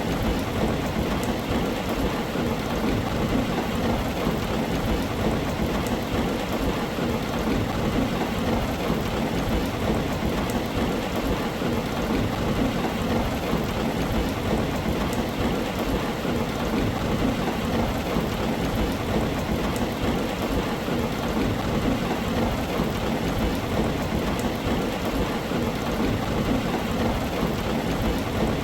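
Heavy rain drumming steadily on a tin roof, an even wash of noise with a low rumble underneath and no separate claps or breaks.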